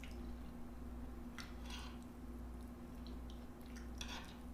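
A person chewing food close to the microphone, with a few short wet mouth sounds over a steady low hum.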